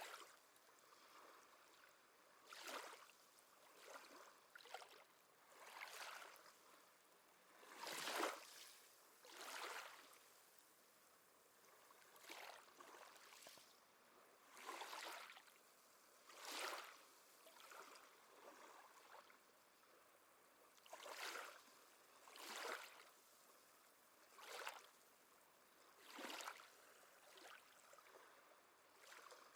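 Small waves lapping at the water's edge, a soft splash or wash every second or two at an irregular pace, the largest about eight seconds in. No seabird calls are heard.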